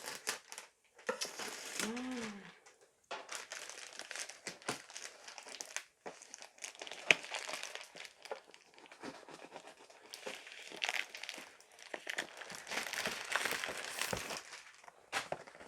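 Filament packaging being handled and unpacked by hand: plastic wrapping crinkling and rustling almost continuously, with many small clicks and knocks.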